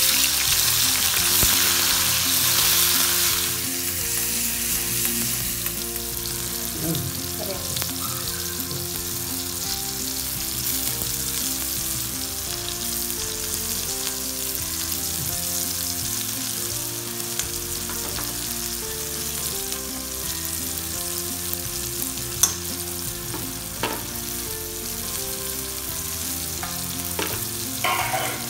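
Chopped tomatoes dropped into hot oil in a wok: a loud burst of sizzling for the first few seconds, settling into a steady, quieter sizzle as they fry. A few light clicks come near the end.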